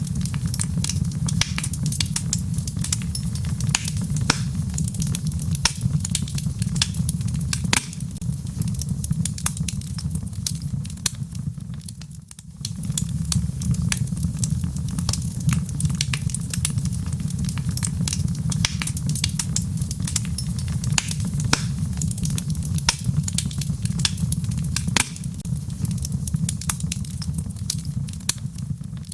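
Wood fire burning in a fireplace, with a steady low rumble of flames and dense, irregular sharp crackles and pops from the burning logs. The sound briefly drops away about twelve seconds in.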